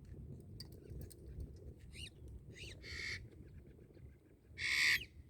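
Pet parrots calling: a few short chirps, then two harsh squawks about 3 s in and near the end, the second the loudest.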